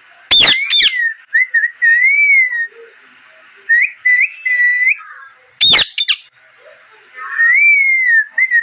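Pet parrot whistling a run of short, gliding whistles that rise and fall around one pitch. Two loud, piercing squawks break in, about half a second in and again near six seconds.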